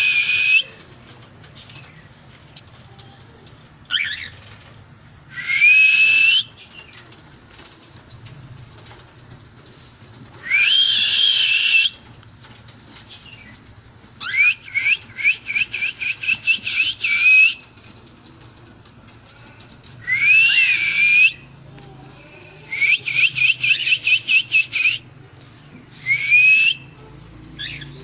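Cockatiel calls: loud, harsh upslurred whistles about a second long, repeated every few seconds, with two runs of rapid chirps at about five or six a second, one about halfway through and one near the end.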